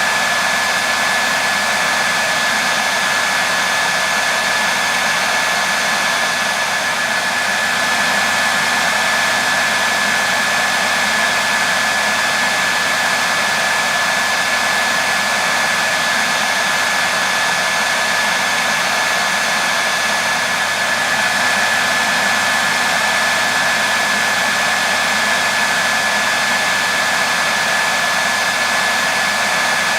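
Hair dryer running continuously: a steady rushing of air with a thin, constant whine from the motor.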